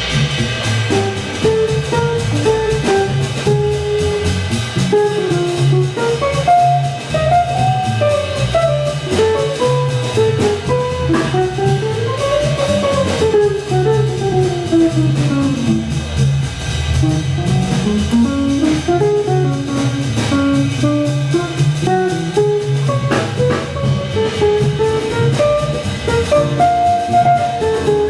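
Jazz orchestra music: a fast single-note solo line runs up and down in scale-like sweeps over a walking bass and drums.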